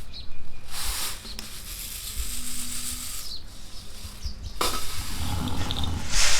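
Hand-turned stone quern grinding green gram into split dal, a gritty rasp of stone rubbing on stone and grain. It grows louder about half a second in and again from about four and a half seconds on.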